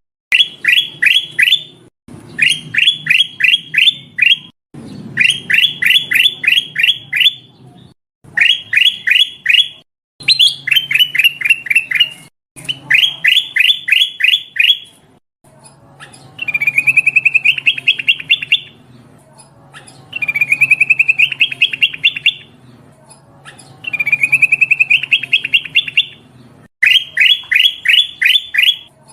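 Kutilang emas bulbul calling: loud bursts of rapid, repeated chirps, about six to eight notes each, separated by short gaps. About halfway through, the bursts turn into flatter, faster trills at a slightly lower pitch. It is a lure call, tagged as a female calling a male.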